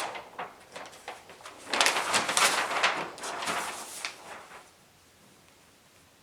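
A few seconds of rustling noise with scattered clicks, loudest between about two and four and a half seconds in, then faint room tone.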